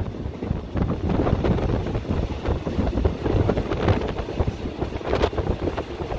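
Wind buffeting the microphone at an open window of a moving passenger train, over the steady rumble and rattle of the carriage running on the track.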